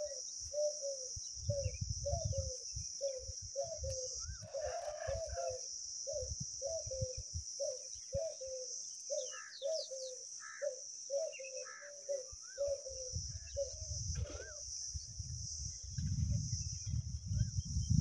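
Bird calls: a short low call repeated about twice a second, with scattered higher chirps, over a steady high-pitched drone.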